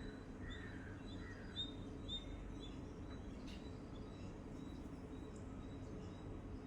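Small birds chirping: a quick run of short, high chirps in the first two seconds, then sparser, fainter chirps. A sharp click comes about a second and a half in, over a steady low background hum.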